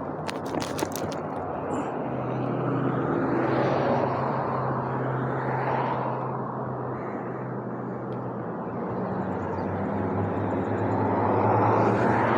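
Road traffic passing: vehicles swelling and fading one after another over a steady low engine hum, with a few sharp clicks about a second in.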